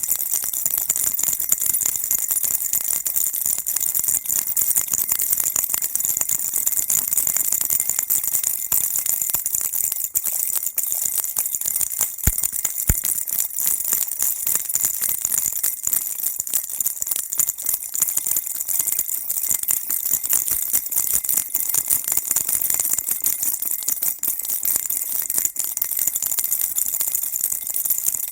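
Baby's toy rattle shaken continuously, a dense, steady jingling clatter that stays bright and high-pitched throughout, used as white noise to calm a baby.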